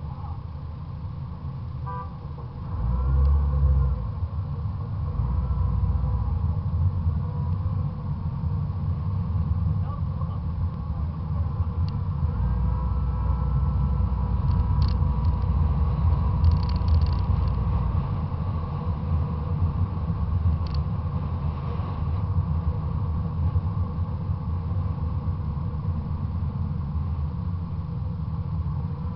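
Fox-body Mustang's 5.0 V8 rumbling at low speed, heard from a camera on the car's fender, mixed with wind noise. The rumble swells about three seconds in and again midway, as the car picks up speed.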